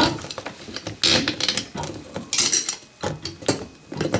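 Small metal plumbing hardware (flange repair ring, closet bolts, nuts and washers) clinking and clattering as it is handled, in irregular clusters of sharp clicks.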